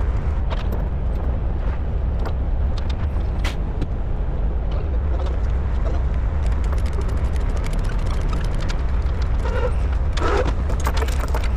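Steady low diesel engine rumble with scattered light clicks and clanks over it.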